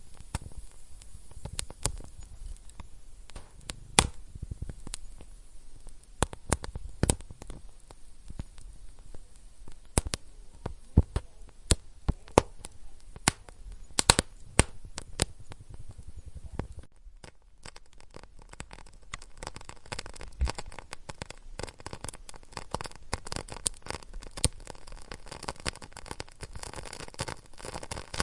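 Fireplace fire crackling, with irregular sharp pops over a soft low rumble. About two-thirds of the way through it changes to denser, finer, lighter crackling with less rumble.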